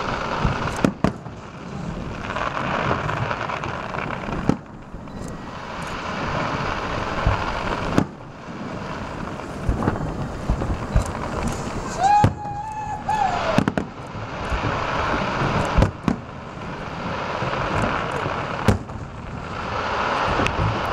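Aerial firework shells bursting with sharp bangs every few seconds over a steady noise. A brief whistling tone sounds about twelve seconds in.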